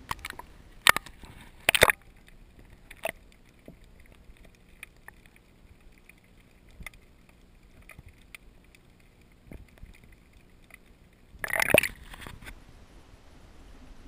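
Water splashing and sloshing around a GoPro camera as it is dipped at the surface beside a kayak: a few sharp splashes in the first seconds and a longer, louder splash near the end, with small ticks and gurgles in between.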